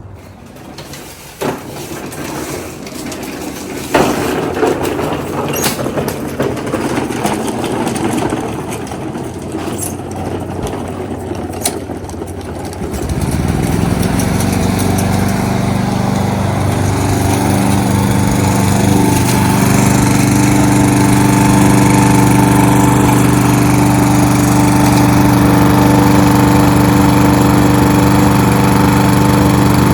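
Single-cylinder Kohler XT-675 push-mower engine. For the first stretch there is a noisy clatter with scattered knocks, then about 13 seconds in the engine comes up and runs at a steady speed.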